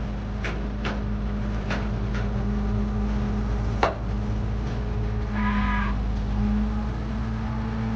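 A crane's engine running steadily, with several sharp knocks, the loudest about four seconds in, and a short drawn-out call near six seconds.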